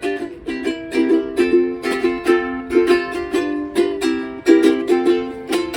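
Ukulele strummed in a brisk, steady rhythm, playing the opening chords of a song.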